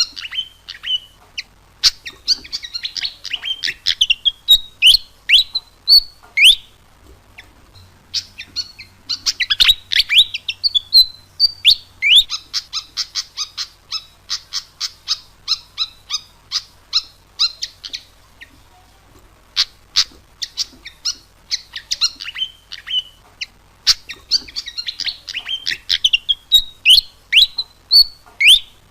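Malaysian pied fantail singing: rapid runs of short, high chirps in repeated phrases, several ending in sweeping whistled notes, with brief pauses about a third and two thirds of the way through.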